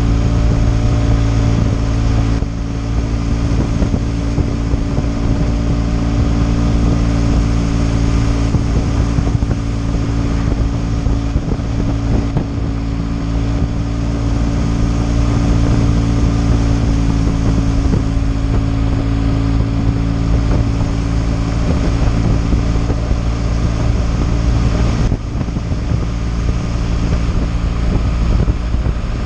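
BMW R 1200 GS water-cooled boxer-twin engine running at a steady cruise, its note holding even, with wind rushing over the microphone.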